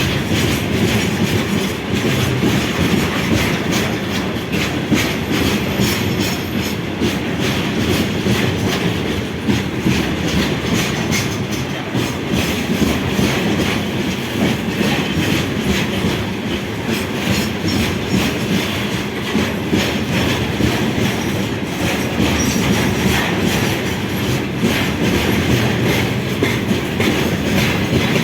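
Train passing on the track, its wheels clattering steadily over the rails, with a faint squeal of wheels at times.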